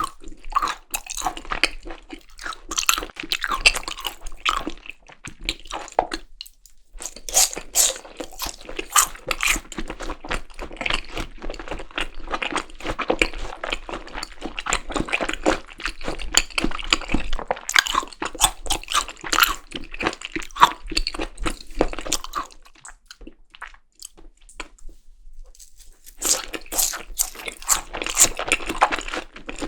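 Close-miked chewing of seasoned raw beef tartare, with wet, sticky mouth sounds and crunches, as in yukhoe mixed with julienned Korean pear. The chewing pauses briefly about six seconds in and again for a few seconds near the end.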